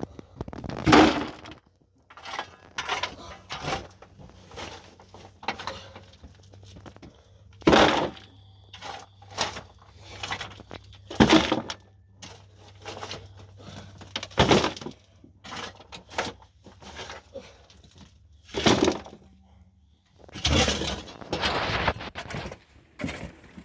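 Loud cracks and crunches every few seconds, with smaller clicks and scraping between them: something being broken apart by hand.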